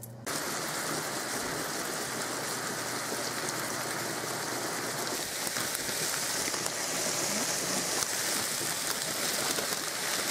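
Chunks of chicken breast frying in a skillet, a steady sizzling hiss.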